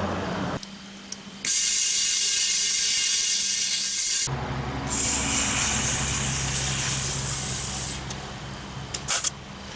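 Compressed air hissing into a new tubeless lawn tractor tire in two long blasts, while the tire bead is being forced out against the rim to seat. A few sharp clicks follow near the end.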